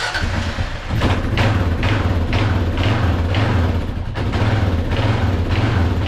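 Kawasaki KLR650's single-cylinder four-stroke engine catching and running on choke from a cold start after two years of sitting. It runs with a regular pulse about twice a second.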